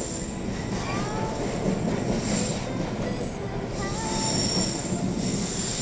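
Ghost train ride car rumbling along its track, with several high-pitched metallic squeals from its wheels.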